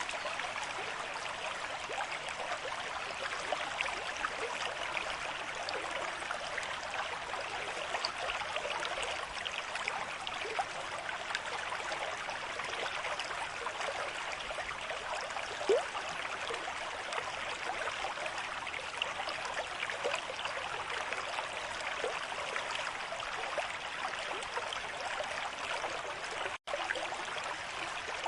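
River stream at moderate flow: a steady rush of running water with small splashes and gurgles. The sound cuts out for an instant near the end.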